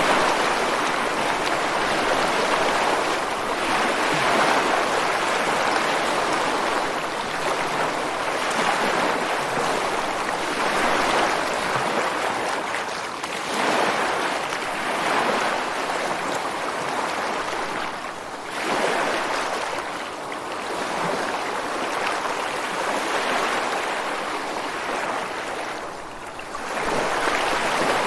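Ocean waves breaking and washing over rocks and sand, a continuous rushing that swells and eases every few seconds as each wave comes in and draws back.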